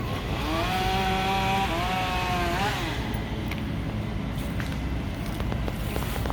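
A chainsaw running for a couple of seconds at a steady pitch. The pitch steps up, rises briefly and stops. A steady low rumble of background noise continues throughout.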